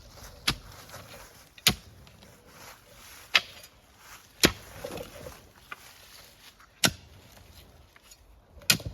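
Manual clamshell post hole digger jabbed into the ground to dig a fence post hole: six sharp strikes, one every second or two.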